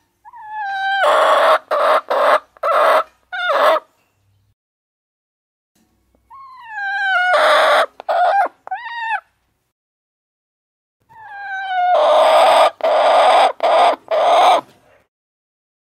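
Chicken calling loudly three times, each call opening on a short pitched glide and running into a string of harsh, loud syllables, with silence between the calls.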